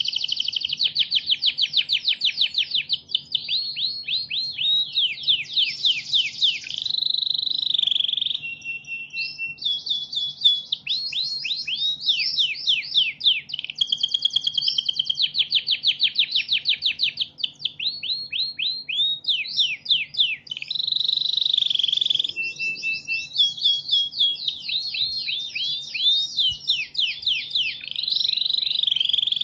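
Recorded songbird song played as a masteran for training cage birds: a continuous run of fast rattling trills of short sweeping notes, many per second, with only brief pauses, over a faint low hum.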